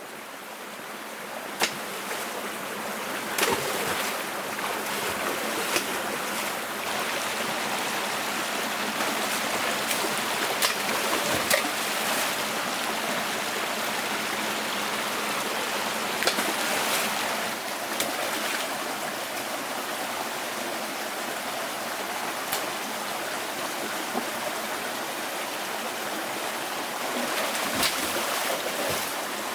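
Running stream water, a steady rush that swells up over the first couple of seconds, with a few sharp clicks or knocks scattered through.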